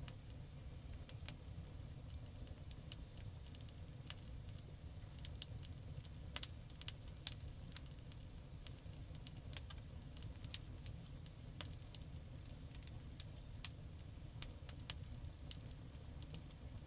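Wood campfire crackling: irregular sharp pops and snaps over a steady low rumble, with a cluster of louder pops about five to eight seconds in.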